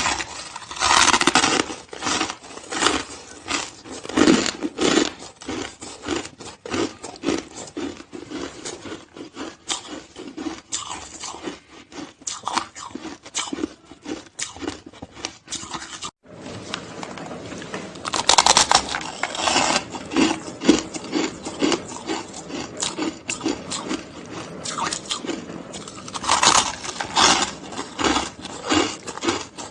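Hard, crusty shaved ice being bitten and chewed up close, a dense run of crisp crunches with louder bite bursts every few seconds. The sound drops out for an instant about halfway through.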